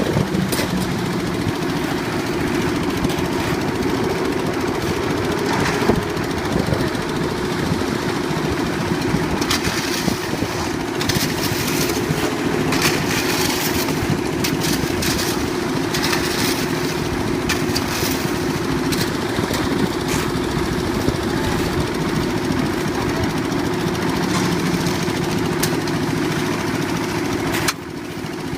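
Concrete mixer's old diesel engine running steadily under load, with clattering knocks over it. The level drops suddenly near the end.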